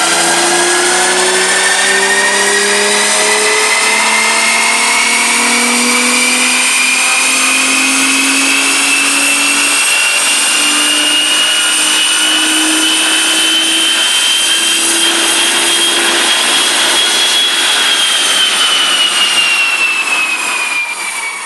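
Nissan 350Z's 3.5-litre V6 and exhaust in one long, steady pull under load, the engine note rising evenly for most of the time and then falling as the throttle comes off near the end.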